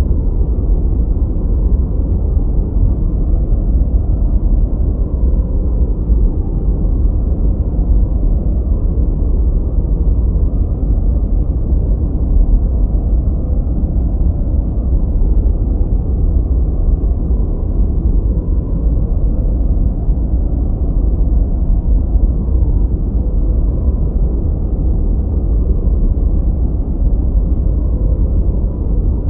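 Steady, unchanging deep rushing noise, heavy in the bass and fading out above the midrange, like brown noise rather than hissy white noise. It has no rhythm or separate events.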